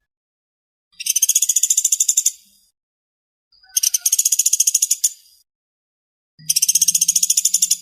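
Woodpecker (pelatuk sampit) giving a fast, tightly spaced rattling trill, three times, each burst about a second and a half long with a short pause between.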